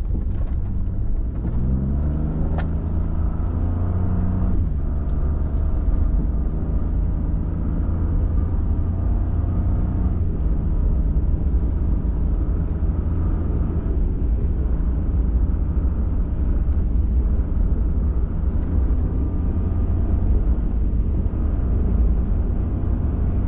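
Pickup truck engine accelerating, its pitch rising over the first few seconds and then holding steady at a cruise, over a constant low rumble from the road.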